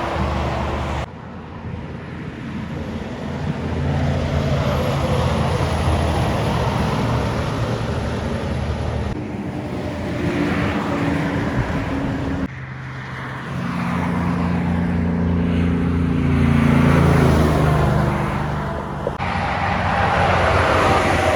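A motor vehicle's engine running, heard in several short clips joined by abrupt cuts.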